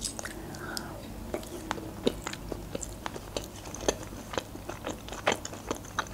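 Close-miked chewing of a mouthful of sausage: irregular sharp mouth clicks and smacks, about three a second.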